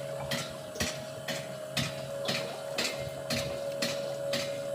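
Factory machinery running: evenly spaced, sharp metallic clacks about twice a second over a steady hum.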